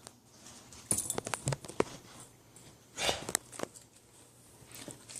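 Dogs moving about and sniffing: scattered light clicks and taps, and a short breathy sniff about three seconds in.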